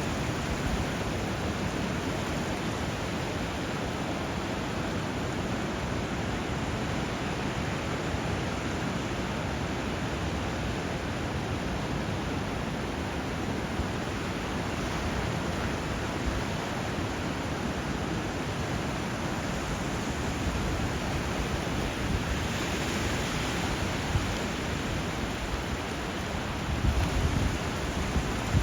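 Steady rushing of water where a river flows into the sea, a continuous even wash of noise, with a few brief louder surges near the end.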